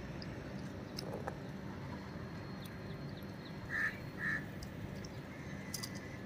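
A bird gives two short calls about half a second apart, over a steady low background hum.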